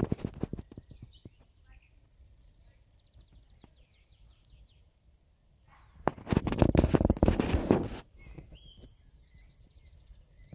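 Garden songbirds singing in the background, a fast even trill and short chirping and whistled notes, between two loud bursts of crackling rustle close to the microphone: a short one at the start and a longer one lasting about two seconds from six seconds in.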